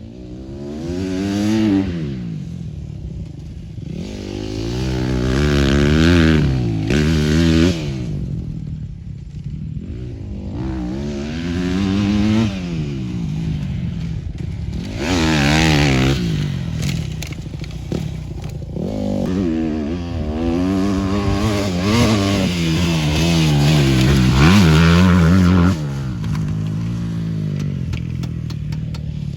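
Motorcycle engine on a flat track, revving up and dropping back over and over as the bike accelerates and slows, with a swell every few seconds.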